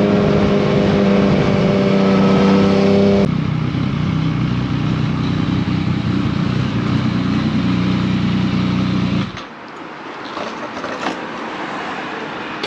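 Motorcycle engine running at steady high revs, dropping sharply in pitch about three seconds in as the throttle comes off. It carries on lower until the engine sound cuts out suddenly about nine seconds in, leaving quieter rushing noise with a few light ticks.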